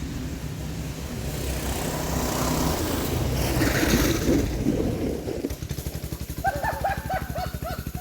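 Small off-road vehicle engine running. Its noise swells through the middle, then it settles to a fast, even putter in the second half. Near the end a brief series of high, repeated arched tones sounds over it.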